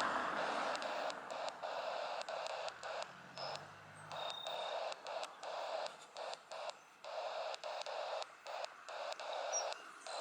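Faint radio-channel static hiss, choppy and cutting in and out, after louder aircraft noise dies away in the first second.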